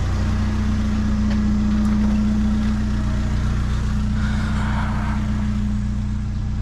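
Truck engine running steadily, a constant low drone with an unchanging pitch.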